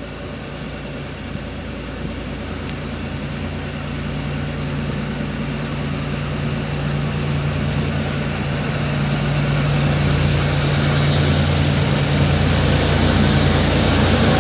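Diesel engines of three EMD GR-12W diesel-electric freight locomotives running, a steady low drone that grows steadily louder as the train approaches.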